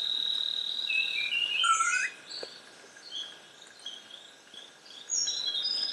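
Rainforest bird chorus: a long steady high whistle for about the first second, then a burst of short chirps and a rising call, followed by a string of short high notes, over a faint hiss of forest background.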